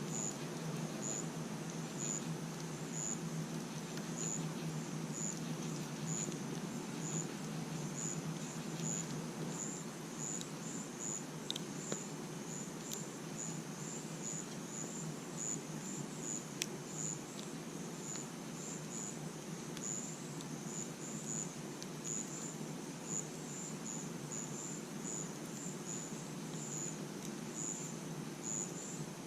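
Crickets chirping steadily, short high chirps repeating about once a second, over the low steady rush of a campfire with a few sharp crackling pops.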